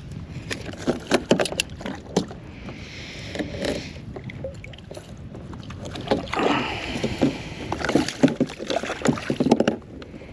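Knocks and rattles on a fishing kayak's hull and gear, with two spells of splashing water as a hooked fish is brought to the boat and landed.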